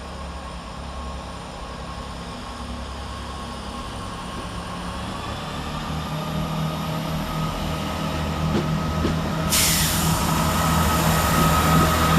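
Diesel multiple unit train getting steadily louder as it comes closer, its engine rumbling under a steady whine, with a sudden loud hiss starting about nine and a half seconds in.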